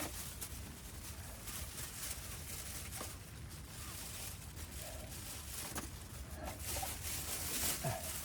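Steady rain patter, with a few faint rustles and knocks from wet camping gear being handled.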